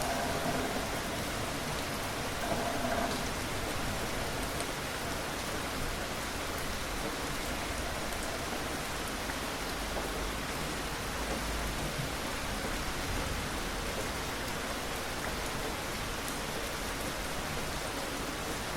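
Steady rain falling on a surface, an even hiss of raindrops that holds at the same level throughout.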